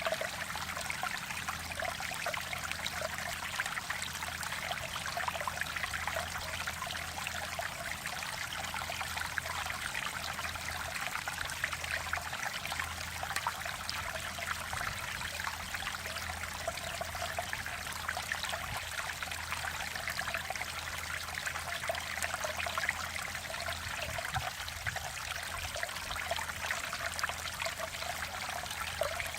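Mountain stream water flowing and trickling over rocks in a steady, continuous rush, with a faint low hum beneath.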